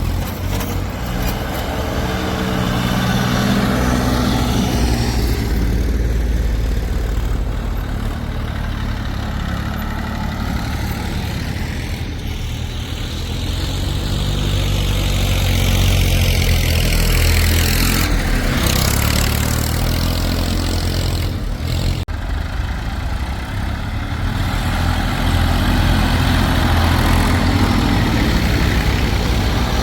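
Heavy diesel engine of earthmoving machinery running, its speed rising and falling, with a higher whine that climbs and drops about halfway through.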